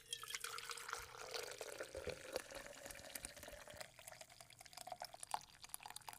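Coffee pouring into a mug, a steady trickle with small drips and splashes.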